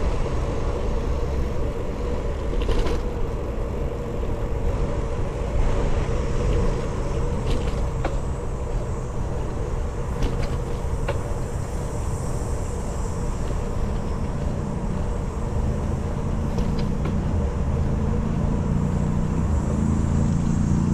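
Steady wind and road noise from riding a bicycle, mostly a low rumble, with a few faint ticks along the way and the rumble growing stronger near the end.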